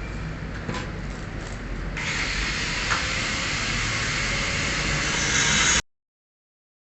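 Loud, steady hissing noise of metalworking starts about two seconds in and cuts off suddenly near the end.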